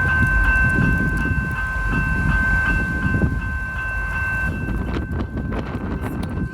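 Houston METRORail light-rail train running past close by: a low rumble that slowly fades, under a steady high-pitched tone, with a few clicks near the end.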